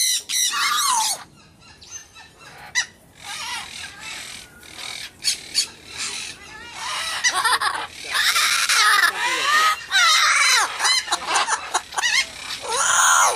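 Captive birds calling in loud, harsh screeches, bunched in bouts in the first second, in the second half and at the very end, with quieter chatter in between.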